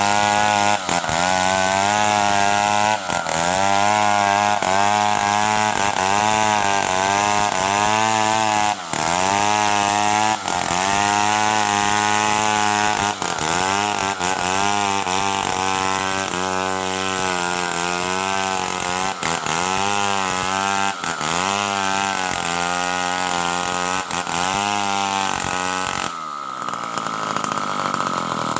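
Stihl 070 two-stroke chainsaw running at high revs through wood, its engine note repeatedly sagging and recovering as the chain bites. About two seconds before the end it comes off the throttle and the pitch falls away.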